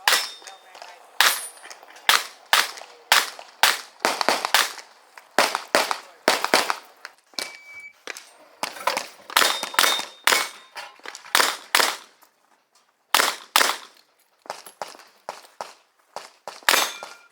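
Revolver shots fired in quick strings during a practical-shooting stage: about twenty sharp cracks, with a short pause in the middle, and a brief metallic ring after a few of them.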